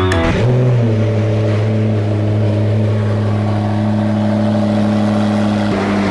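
McLaren P1's twin-turbo V8 running: a brief rise in revs about half a second in, then a steady idle.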